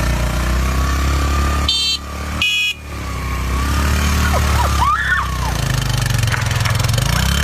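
A motor vehicle engine running steadily, broken about two seconds in by two short high-pitched beeps.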